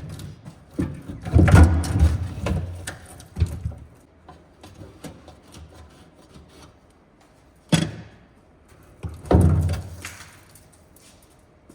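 Scattered clunks and thumps as a car's fuel tank is handled and lifted out of its well. There is a cluster of knocks early, a sharp knock about eight seconds in, and a heavier thud soon after.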